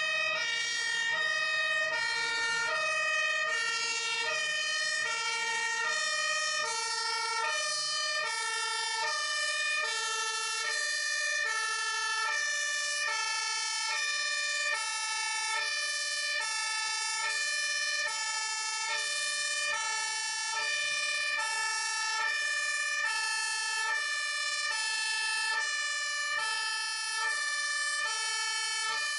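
Fire truck's two-tone siren sounding continuously, alternating between a high and a low note about once a second, with a steady high tone running beneath it.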